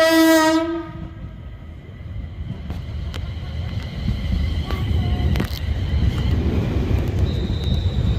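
A train horn sounds one short blast, under a second long, then the low rumble of a train builds and holds as it runs through the station, with scattered clicks and a thin high whine.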